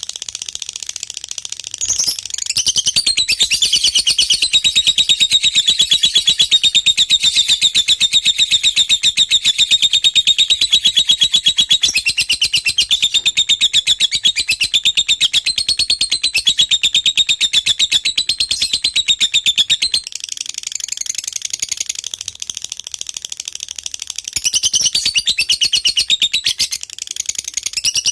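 Lovebird singing in a long, unbroken run of rapid, high chattering trills, the 'konslet' style of a contest lovebird in full song. It starts softer, drops back for a few seconds about two-thirds of the way through, then picks up again.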